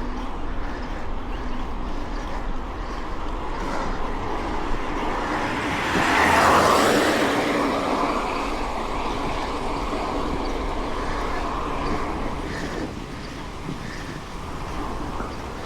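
Mountain bike riding along a road: a steady rushing noise that swells louder about six seconds in and fades back within two seconds.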